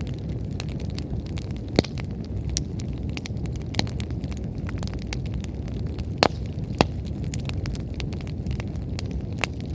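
Wood fire burning, crackling with frequent sharp pops, a few of them loud, about two seconds in and twice past the six-second mark, over a steady low rumble.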